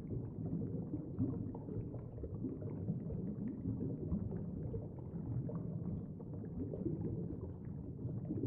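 Muffled, low-pitched ambient background soundtrack: a steady rumbling wash with faint tones, all kept low with no bright highs.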